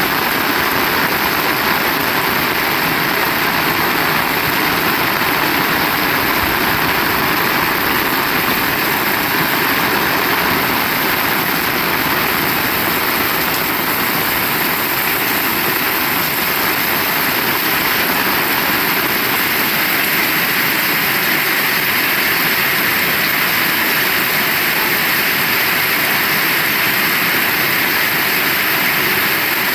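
Heavy rain pouring steadily, an even loud hiss with no breaks.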